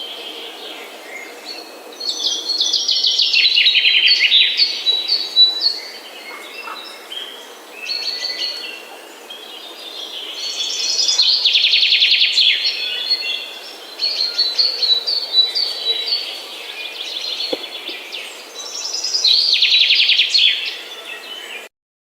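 Songbirds singing, with repeated chirps and three louder, rapid trilling phrases about eight seconds apart. The sound cuts off suddenly near the end.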